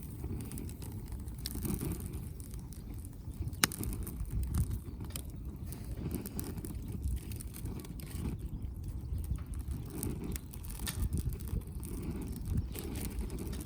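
Firewood burning in a Uniflame wood-grill fire stand, crackling with scattered sharp pops, one louder pop about three and a half seconds in, over a steady low rumble.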